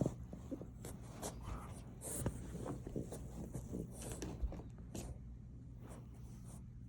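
French bulldog puppy moving about under a sofa: scattered light scratching and clicking, with a few sharper clicks.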